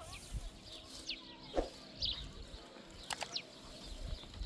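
Outdoor ambience with short, high, falling bird chirps about once a second and a few sharp clicks.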